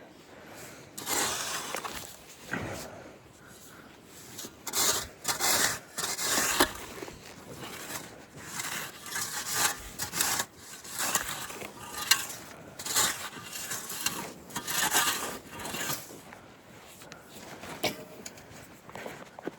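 Repeated scraping strokes through sandy, rocky dirt, as the ground of a dirt-bike track is dug and smoothed by hand.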